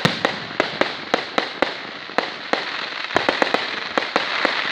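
Fireworks display: a steady run of sharp bangs, about three a second, over continuous crackling, with a quick cluster of bangs about three seconds in.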